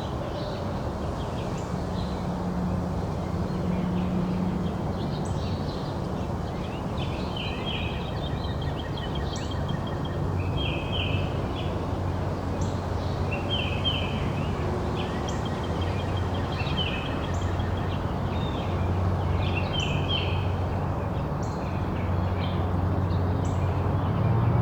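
A songbird calling in short, repeated chirpy phrases every second or two, over a steady low background hum.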